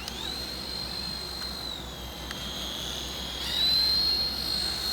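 Syma F3 fixed-pitch RC helicopter in flight: its small electric motor and rotor make a high steady whine. The pitch drops about two seconds in, then rises and gets louder about three and a half seconds in as the throttle is changed.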